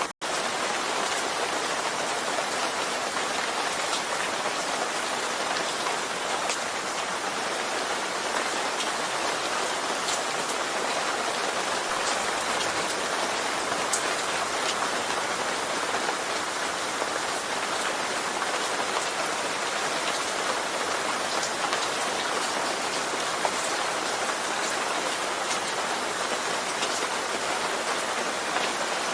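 Steady rain falling: an even hiss with scattered single drops ticking through it. The sound drops out for an instant right at the start.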